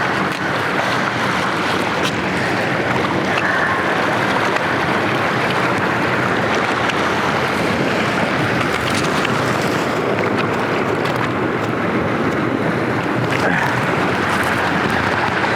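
Strong wind buffeting the microphone over the steady wash of sea waves breaking along the shore.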